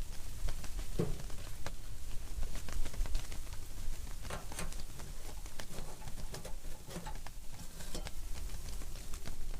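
Strong wind buffeting a fishing tent: a steady low rumble with irregular light pattering and ticking on the fabric.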